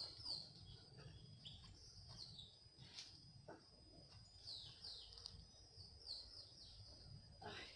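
Faint birdsong: short downward-sweeping chirps, a few near the start and a cluster about halfway through, over a thin steady high tone.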